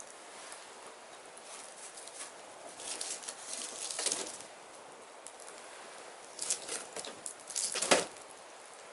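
Firewood burning, crackling over a steady hiss. It crackles in two clusters, about three seconds in and again from about six and a half seconds, with the loudest pop near the end.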